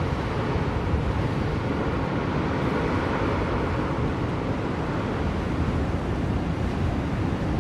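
Steady blizzard wind, a deep rushing noise without gusts or breaks.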